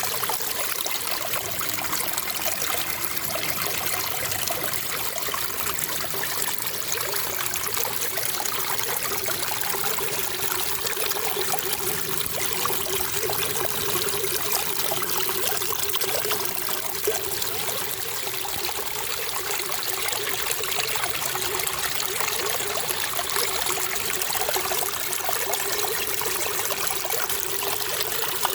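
Running water trickling steadily, an even hiss without breaks or changes.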